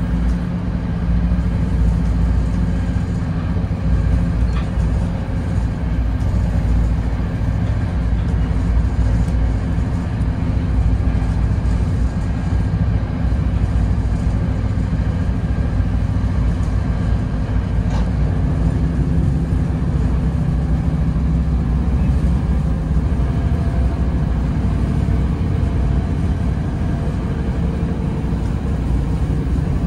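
Steady rumble of a moving NJ Transit Bombardier Comet IIM passenger coach, heard from inside the car as it runs along the track. A faint single click comes about halfway through.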